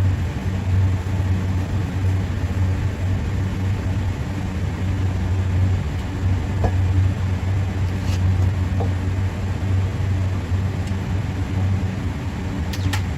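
Steady low machinery hum, with a few faint light clicks of metal parts being handled.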